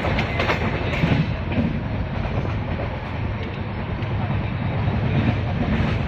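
Shan-e-Punjab Express passenger train running at speed, heard from inside a coach: a steady low rumble of wheels on rails, with scattered clicks from the wheels passing over rail joints.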